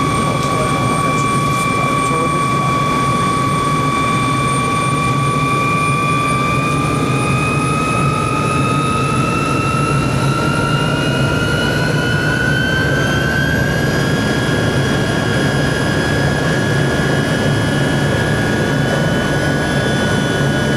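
Twin-turbine helicopter running: a steady turbine whine over the thrum of the rotor. From about six seconds in the whine rises in pitch as the engines speed up, then holds steady at the higher pitch from about fourteen seconds.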